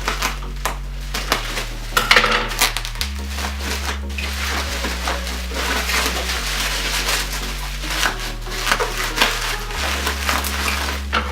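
Parcel packaging being handled and pulled open by hand, a run of crackling and rustling, over background music with a steady bass line.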